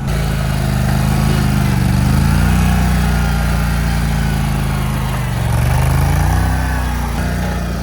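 A vehicle engine running hard, revving up about two seconds in, easing off around five seconds, then revving up again.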